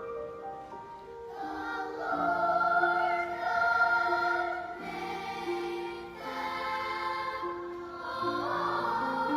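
Music: a choir singing long held notes over a gentle instrumental accompaniment, the voices coming in about a second and a half in.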